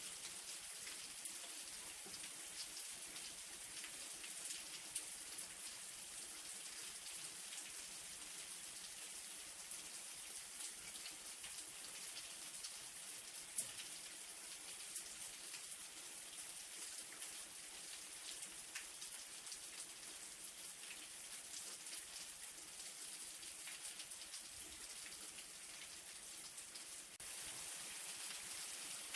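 Light rain falling steadily, a soft high hiss of fine drops with now and then a single louder drop.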